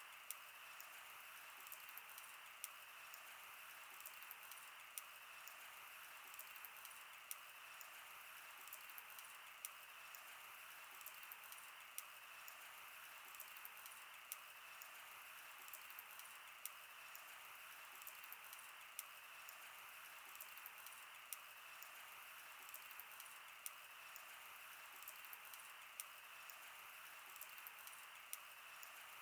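Wood fire crackling: a steady soft hiss with irregular small pops and ticks, and a sharper snap every second or two.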